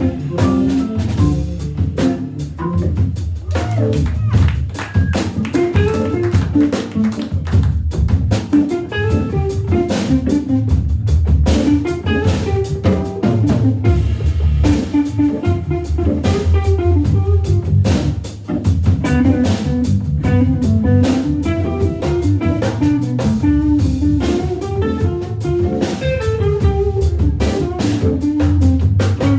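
A live jazz-funk organ trio is playing, with an electric guitar taking the lead line over a drum kit and a Hammond B3 organ. The music is continuous and steady in level, with a busy melodic line and constant drum hits.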